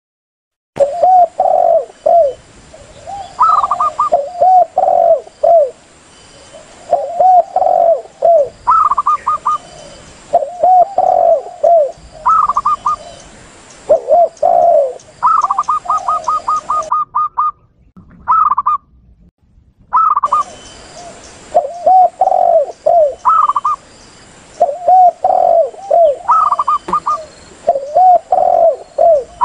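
Spotted doves and zebra doves calling together: repeated low, rounded coo phrases with higher, quick-fire runs of coo notes over them. The calling drops out for about three seconds a little past halfway, then resumes.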